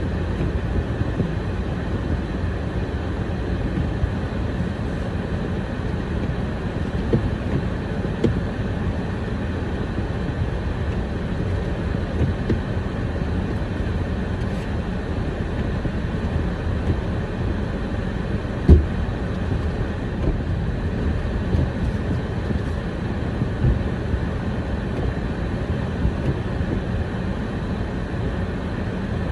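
Steady rumble of a car heard from inside the cabin, with its engine running, and a few small knocks, the sharpest about two-thirds of the way through.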